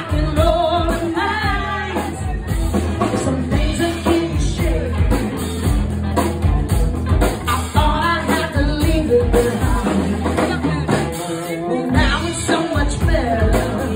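Live funk band playing with a singer over a steady bass and drum beat; the bass drops out briefly near the end.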